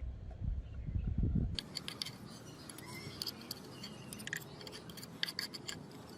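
Small metal parts being handled: low dull knocks for the first second and a half, then rapid sharp clicks and light scraping.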